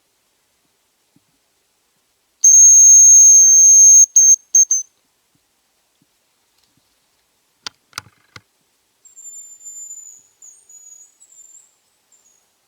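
A hazel grouse call whistled on a decoy whistle: one thin, high, very loud drawn-out note, then a few short quick notes. A couple of clicks follow. Then a much fainter high, thin whistle, slightly falling and broken into little trills.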